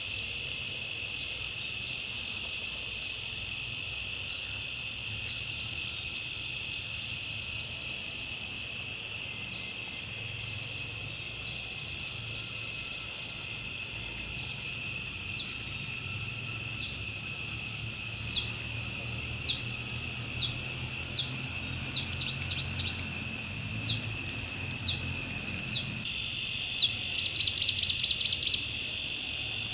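Steady drone of insects, with a bird giving sharp downward-sliding chirps about once a second from past halfway, and a fast rattling trill near the end.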